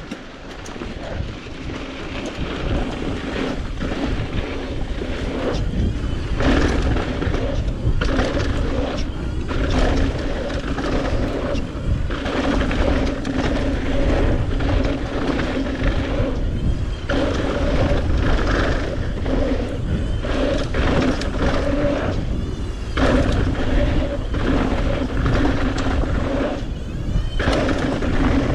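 Mountain bike riding down a jump line, a steady pitched buzz from the bike broken off for a moment every few seconds, under a heavy rumble of wind on the microphone.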